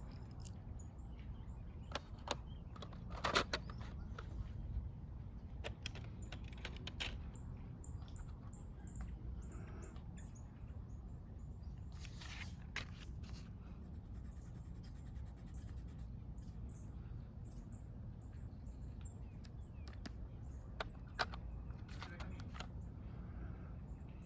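Coloring on paper by hand: scattered scratchy strokes and a few clicks and taps, over a steady low outdoor rumble, with faint bird chirps.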